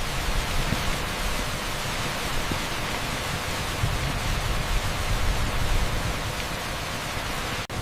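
Torrential rain pouring on a street, a steady dense hiss. There is a momentary dropout near the end.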